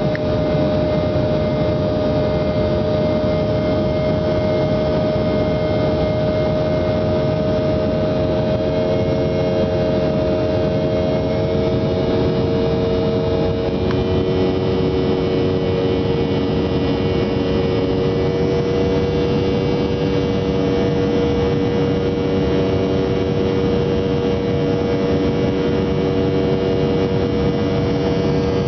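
Steady aircraft engine drone heard inside the cabin: a loud, even rushing noise with a few steady humming tones. About halfway through, the tones shift, with one dropping lower, as with a change in engine power.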